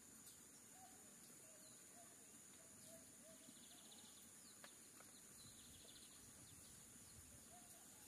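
Near silence: quiet pond-side ambience with faint short bird chirps repeating in a series early on and again near the end, over a steady faint high hiss. There are two soft ticks a little past the middle.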